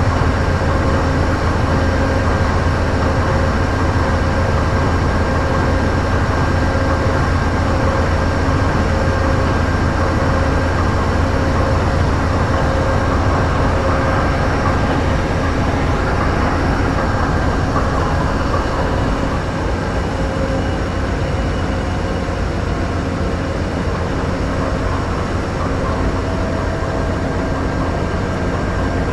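Amtrak diesel locomotives idling at a station stop: a steady, loud engine hum with several steady whining tones above it, easing slightly about two-thirds of the way through.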